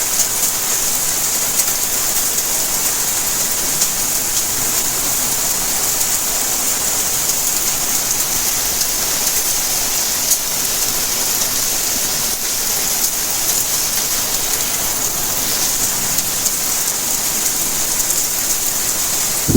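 Steady rainfall: an even, high hiss flecked with many sharp little drop ticks.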